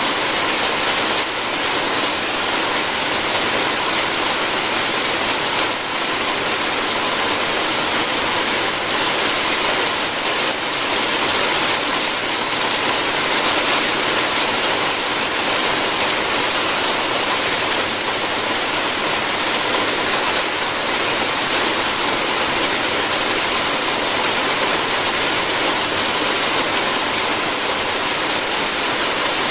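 Steady rain falling on a roof, an even unbroken patter.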